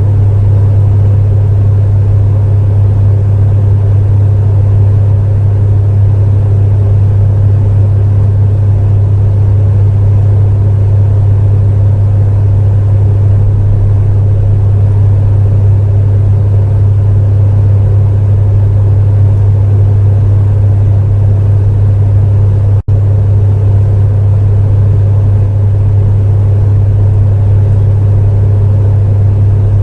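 Space heater running continuously: a steady, loud low hum with an even rush of fan noise above it. A split-second dropout in the audio breaks it about three-quarters of the way through.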